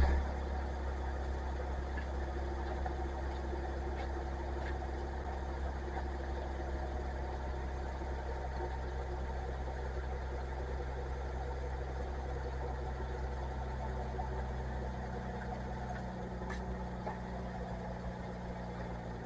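Ram 1500's 3.6-litre Pentastar V6 idling steadily, run up after a fresh oil change to check for leaks.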